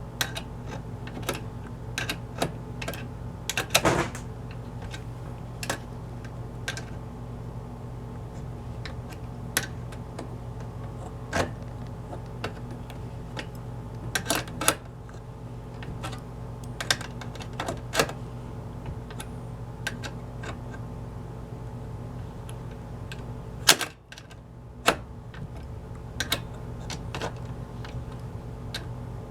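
Small wrench working tiny nuts on the inlet valve mounting screws: irregular metal clicks and taps as the nuts are turned down, over a steady low hum.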